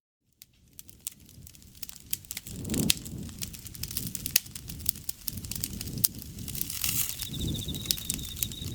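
Campfire crackling and popping over a low flutter of flame, fading in after a brief silence at the start. Near the end an insect begins a steady, high, pulsing trill.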